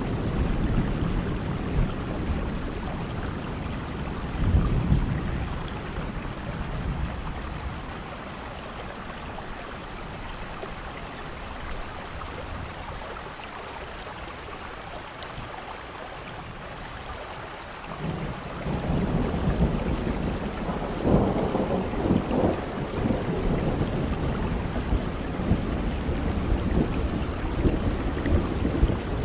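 Steady rain hissing during a thunderstorm. Low rolling thunder swells about four seconds in, eases off through the middle, then builds again about two-thirds of the way through, loudest a few seconds after that.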